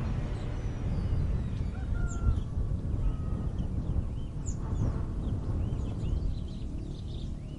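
Outdoor background sound: a steady low rumble with birds chirping, short high calls scattered throughout, and a couple of brief held whistled notes about two and three seconds in.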